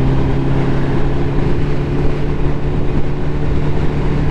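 Ducati motorcycle engine running steadily at a constant speed while riding, with wind rumbling on the microphone.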